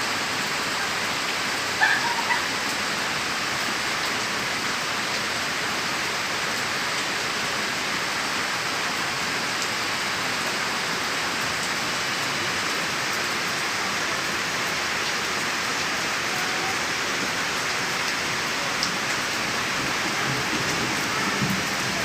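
Heavy rain falling steadily as a dense, even hiss. There is a brief sharp knock about two seconds in, and a low rumble starts near the end.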